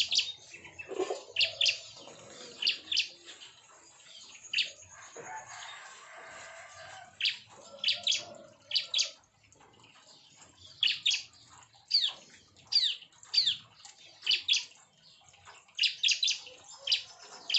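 Bar-winged prinias (ciblek) calling: repeated short, sharp high chirps in quick clusters, some sweeping down in pitch. A soft rustling noise comes in about five seconds in.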